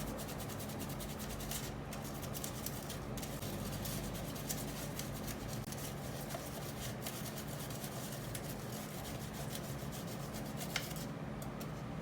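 Continuous rapid scraping and scrubbing made of many short strokes, as when an engine part is brushed or sanded clean.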